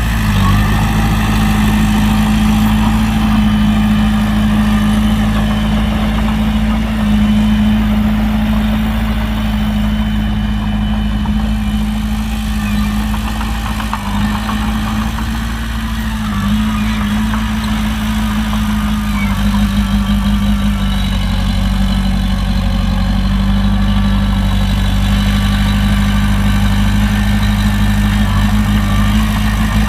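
Heavy diesel engine of earthmoving machinery running steadily at a near-constant speed.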